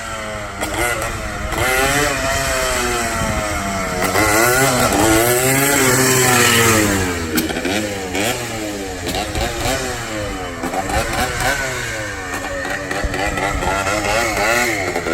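Yamaha Blaster 200's single-cylinder two-stroke engine revved up and down repeatedly, newly brought back to life with a fresh spark plug.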